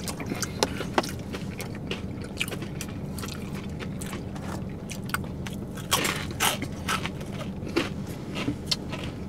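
Close-up chewing and crunching of crunchy food, Takis rolled tortilla chips and fried chicken, with many short crisp crunches and a few louder ones about six seconds in. A steady low hum runs underneath.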